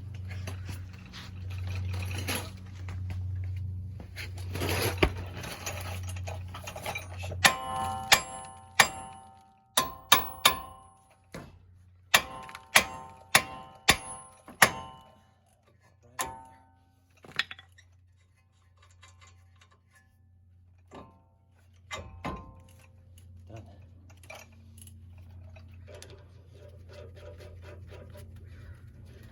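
Hammer blows on the cast steering knuckle of an LML Duramax Silverado, shocking the tie rod end's tapered stud loose from the knuckle. Each strike is sharp and rings like struck metal; about a dozen come in quick succession in the middle, with a few scattered blows after.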